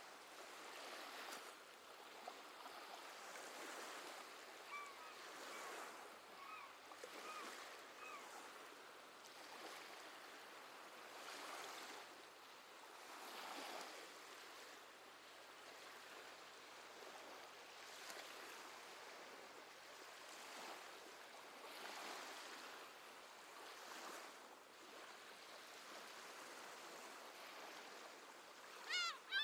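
Gentle sea waves washing in, the noise swelling and falling every few seconds. Faint short seabird chirps come about five to eight seconds in, and a louder seabird call sounds right at the end.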